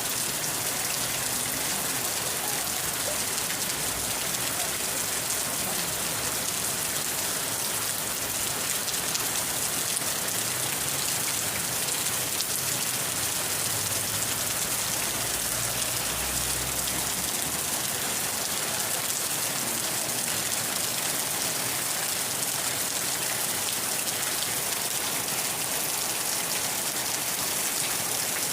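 Steady rain falling and pattering on surfaces, an even hiss without a break, with a faint low rumble for a few seconds around the middle.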